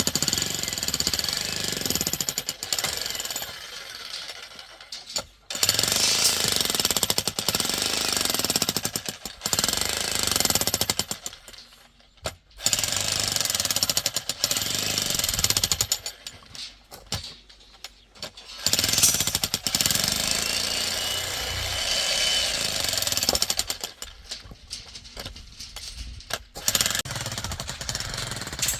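Hand-held electric demolition hammer chiselling at an old masonry wall. It runs in loud bursts of a few seconds with short pauses between them, and the bursts are lighter near the end.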